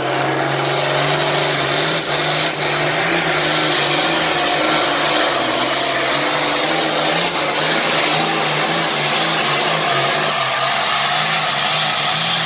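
International 1066 pulling tractor's engine running flat out under full load as it drags the weight sled down the track. It is a loud, steady drone with a hissing whine over it, and it climbs a little in pitch in the first second.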